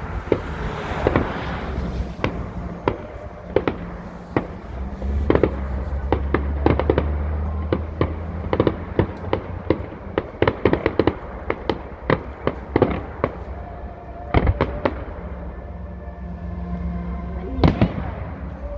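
Fireworks going off: a run of sharp bangs and crackles, coming thick and fast in the middle, with one big bang near the end.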